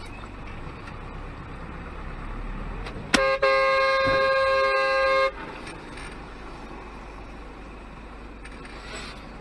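A car horn sounds about three seconds in, a brief toot and then a steady blast of about two seconds, over a steady low rumble of road and engine noise.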